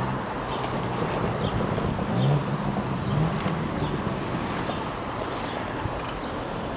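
City street ambience: steady traffic noise from passing cars, with some wind on the microphone.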